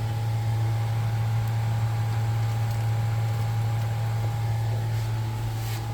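Steady low machine hum, like a fan or motor running, with a faint steady whine above it and no clear bird calls.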